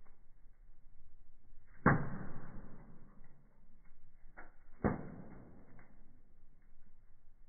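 Firewood burning in a fireplace, popping sharply twice, about two seconds in and again near five seconds, with a few smaller cracks and a faint steady hiss between them.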